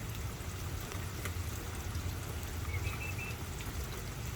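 Steady rain, with water pouring and trickling and scattered drops ticking. A faint short high chirp comes about three seconds in.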